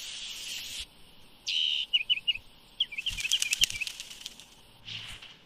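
Birds chirping: a string of short, quick chirps after a brief hiss, with another short hiss near the end.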